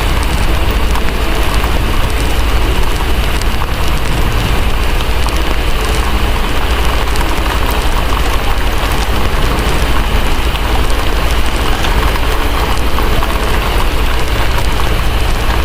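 Heavy, steady rain with a constant deep rumble underneath and a crackling fireplace mixed in faintly.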